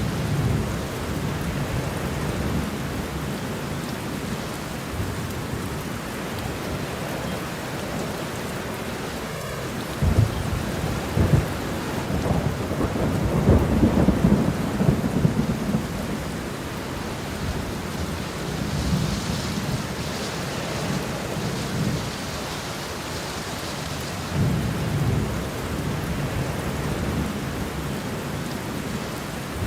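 Steady rain falling, with rolling thunder rumbling low several times; the loudest, longest roll comes about ten to sixteen seconds in, with lighter rolls later.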